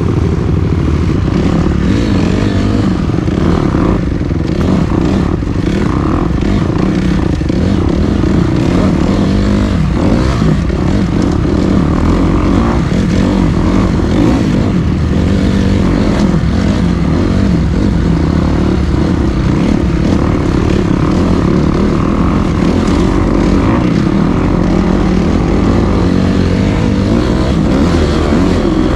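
Dirt bike engine running steadily and loudly while riding.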